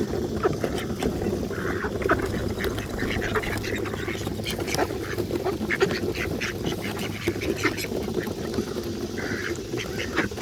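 A flock of ducks quacking and chattering continuously in a crowd, with many short taps and knocks mixed in.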